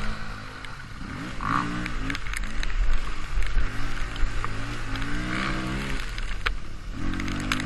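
Dirt bike engine revving up and down repeatedly as it rides a rough trail, with scattered knocks and clatter.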